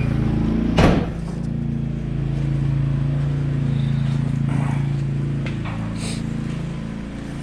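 A truck engine running at a steady pitch, with a single sharp knock or thud about a second in.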